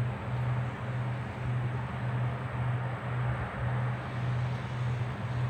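A steady low hum over an even hiss, typical of a vehicle running; the hum swells and dips at a regular pace.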